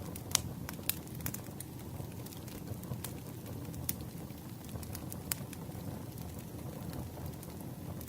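Campfire crackling: a steady low rumble of burning wood with scattered sharp pops and snaps, a few louder than the rest.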